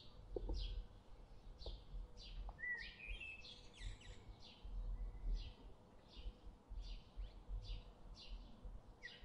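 Faint birdsong: a short chirp repeated about every half second, with a brief warbling phrase about three seconds in, over a faint low rumble.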